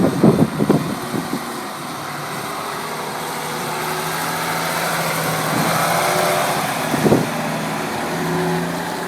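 Volvo A25D articulated dump truck's diesel engine running, growing louder to a peak about six seconds in and then easing off. A few knocks sound in the first second and one about seven seconds in.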